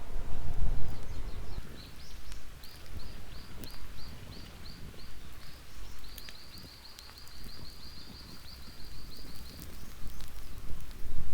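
A songbird sings a series of high, evenly spaced chirps, then a fast trill about six seconds in, over a low outdoor rumble with a few sharp crackles.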